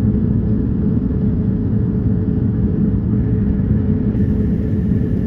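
A car driving, a steady low rumble of engine and road noise with a steady hum.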